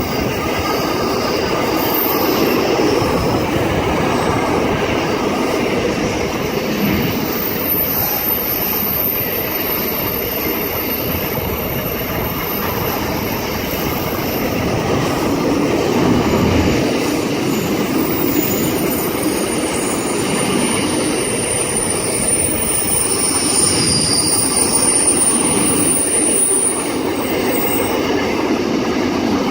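A long freight train's wagons rolling past in a steady rumble of wheels on rail. High-pitched wheel squeal rings out for stretches of several seconds, from about 7 to 14 s and from about 19 to 27 s.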